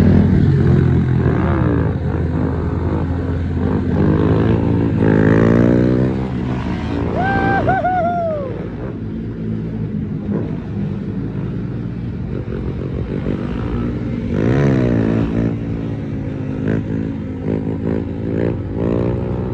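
Several small-displacement mini bike and motorcycle engines running together and being revved, their pitch rising and falling again and again.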